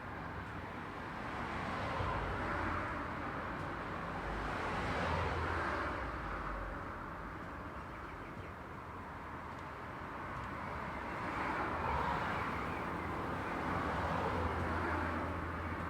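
Road traffic: several cars pass one after another, their tyre and engine noise swelling and fading over a steady background hum.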